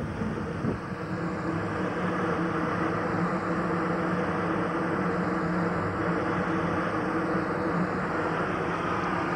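Steady running noise from a narrow-gauge steam locomotive in steam: an even hiss with a low, constant hum underneath.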